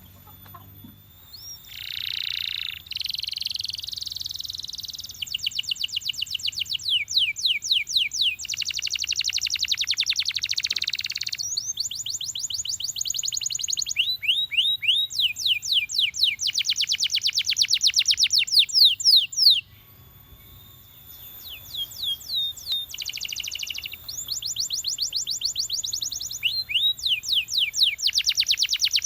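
Domestic canary singing: long rolling trills of rapidly repeated notes, changing to a new phrase every few seconds, with a brief pause about two-thirds of the way through.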